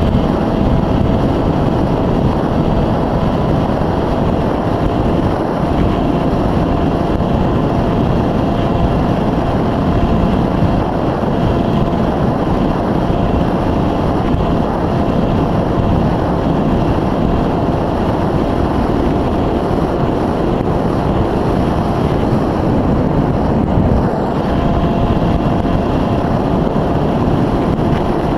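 Wind rushing hard over the microphone of a camera riding on an Easystar 2 RC foam plane in flight, with the faint steady hum of its electric pusher motor and propeller.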